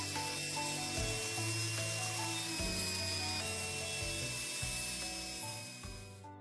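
Steady abrasive rubbing noise, as of sanding or polishing during a restoration, under background music; the rubbing stops abruptly near the end.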